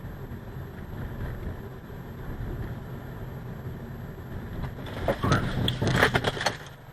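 Steady low road and engine rumble of a vehicle, then a burst of sharp crunching impacts about five seconds in, lasting about a second and a half: a car crash.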